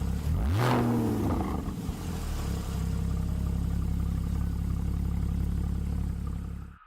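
Porsche 981 Boxster's flat-six engine through an M&M aftermarket exhaust: one quick rev that rises and falls about a second in, then a steady idle that cuts off suddenly near the end.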